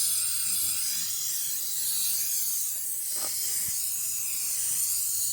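Aerosol can of aircraft paint stripper spraying with a steady hiss.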